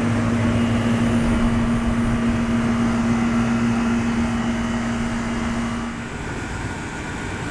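Outdoor central air conditioner condensing unit running: a steady compressor hum with one strong low tone over the whoosh of the condenser fan, the sound of a unit cooling properly. The hum's tone drops away about six seconds in, leaving a softer fan noise.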